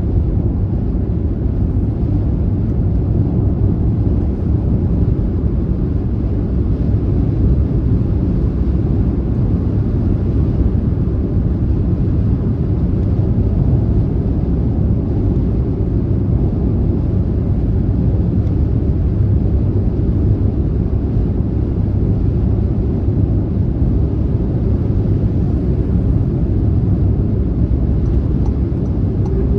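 Car driving steadily on a motorway: constant deep road and engine rumble with no changes or separate events.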